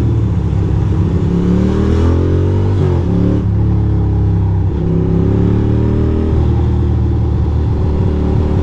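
2006 Ducati Monster 620's air-cooled V-twin engine pulling through the gears: the pitch rises, then drops back at each of about three gear changes, over a steady rush of wind noise.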